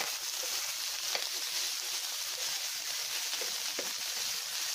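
Diced sausages and canned corn kernels frying in oil in a pan, a steady sizzle, with a few faint scrapes and taps from a plastic spatula stirring them.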